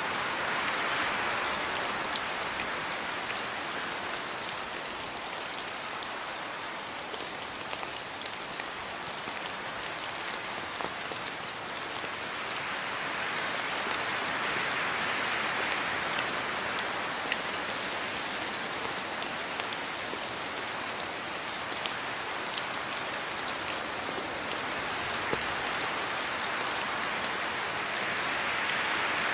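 Steady rain falling, with many individual drops ticking through it; the downpour swells and eases slowly.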